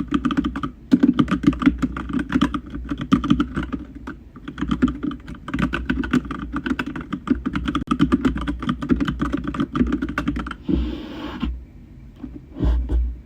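Fast, continuous typing on a computer keyboard: a dense run of rapid key clicks with a short pause about four seconds in. Near the end the typing stops, and there is a brief rustle and a soft thump.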